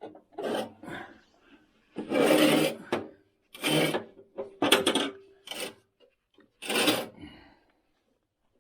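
A series of about six short scraping and rubbing strokes, the loudest about two seconds in, as parts are dragged and handled while fitting a riding mower's deck.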